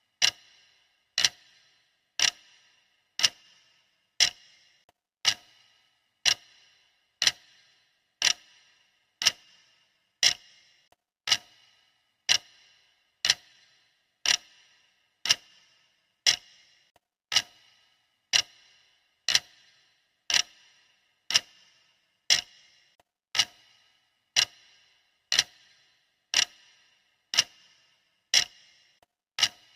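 Clock ticking sound of a countdown timer: sharp ticks, one a second, each with a short ring, evenly paced.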